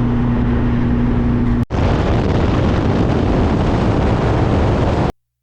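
Car driving at speed: a steady low engine hum under loud road and wind noise. A brief break comes about a second and a half in, after which it is mostly rushing wind and road noise. The sound cuts off abruptly just before the end.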